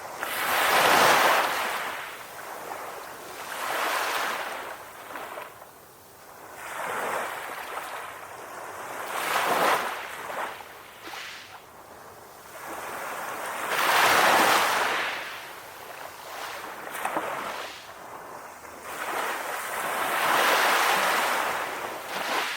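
Calm ocean waves, the rush of surf swelling and fading every few seconds, with the biggest surges about a second in, around the middle and near the end.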